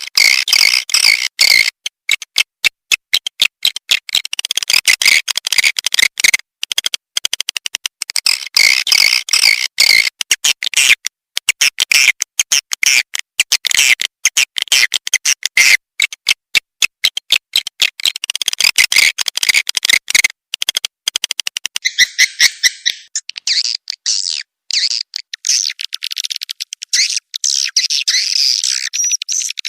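Recorded swiftlet calls played as a lure sound for a swiftlet house: dense, rapid chittering and twittering that runs almost without a break.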